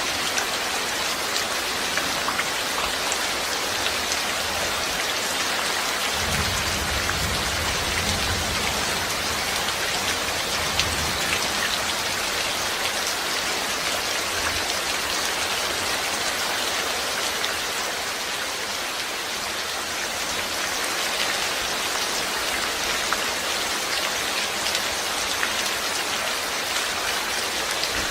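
Steady rain falling, a dense even patter of drops, with a low rumble coming and going between about six and eleven seconds in.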